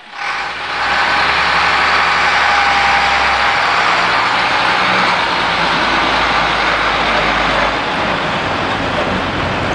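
Diesel engine of an International Harvester rack-body truck running loudly as the truck is driven, its low note changing about a third of the way in and again near the end.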